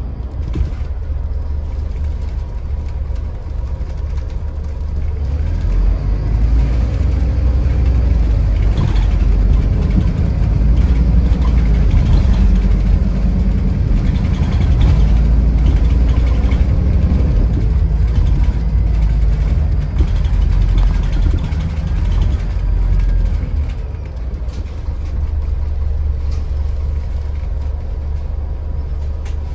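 Scania Irizar i4 coach's diesel engine running under load, a deep rumble that grows louder about six seconds in and eases off again a few seconds before the end.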